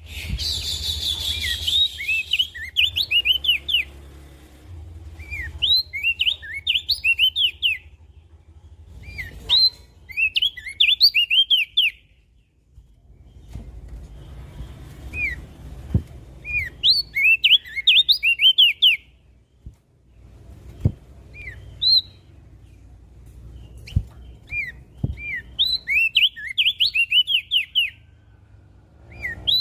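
Crested heleia (opior jambul) singing: repeated phrases of quick, rising chirp notes, each phrase a second or two long with short pauses between.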